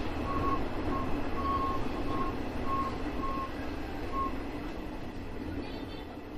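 JR West 201 series electric train slowing into a station, heard from the driver's cab: a steady running rumble that eases off. A high tone sounds on and off, about twice a second, and stops around four seconds in.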